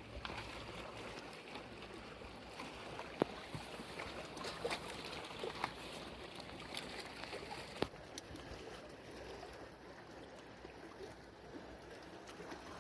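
Gentle lapping of lake water at the shore, with a few scattered sharp clicks.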